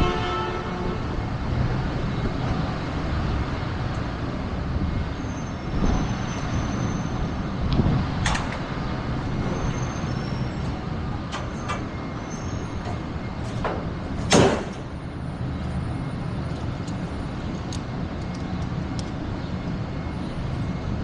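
Steady low road and engine rumble of a vehicle being driven, heard from inside the cabin, with a few light clicks and one sharper knock about two-thirds of the way through.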